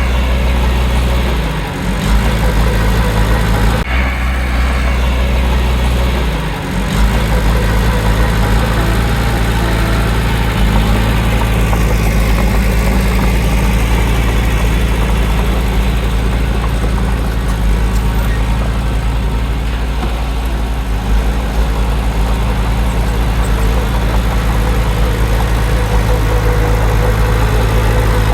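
Heavy earthmoving machine's diesel engine running steadily under load, with a few abrupt changes in the engine note in the first several seconds.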